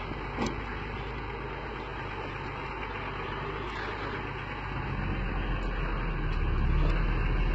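Container truck engine running with a low, steady rumble that grows louder over the last couple of seconds.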